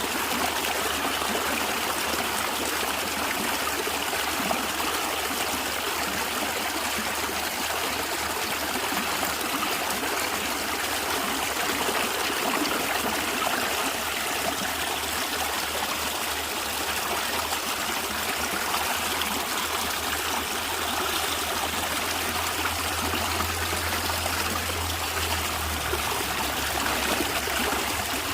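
A natural stream gurgling and trickling with a steady, even flow.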